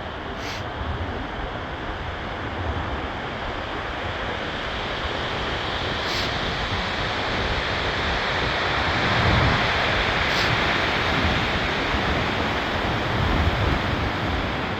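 Storm waves crashing and surging on the shore under hurricane-force wind, with gusts buffeting the microphone. The surf and wind swell louder about halfway through.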